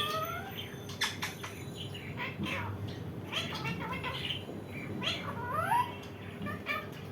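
Indian ringneck parrot calling: a quick run of short calls that rise and fall in pitch, with a few sharp clicks in between.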